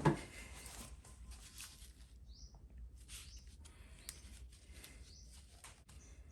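Small parts being handled on a workbench: one sharp knock at the start, then scattered light clicks and rustles, with a few faint high chirps, like a small bird, in the background.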